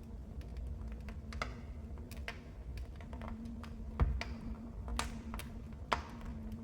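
Wood fire in a fireplace crackling, with irregular sharp pops, the loudest about four seconds in and another near six, over a low steady rumble and a faint hum.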